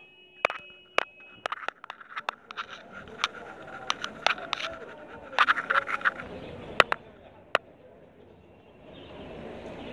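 Small birds chirping in quick, sharp calls, with a steady high whistling note through the first half. The calls thin out after about seven seconds, and a steady street hum rises near the end.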